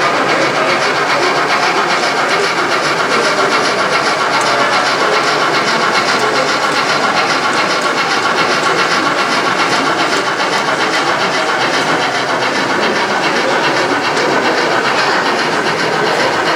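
Model train running on a layout, its wheels clicking in a steady rhythm over the rail joints, over a constant background din.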